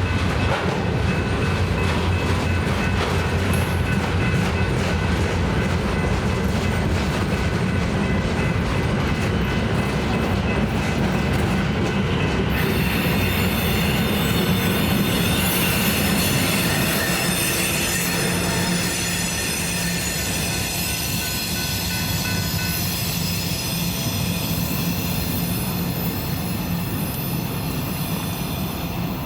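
A train rolling past with its wheels squealing. The running noise is loud and steady, and the high, thin squeal tones grow stronger about halfway through.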